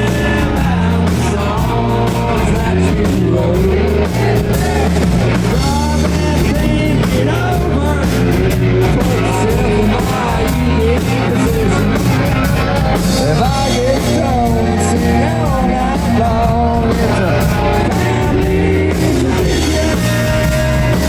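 A rock band playing loud and steady: electric guitar and drum kit with a singer's voice over them.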